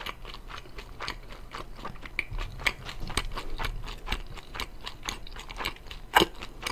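Chewing crispy fried chicken: an irregular run of small crunches and crackles, with one louder crack about six seconds in.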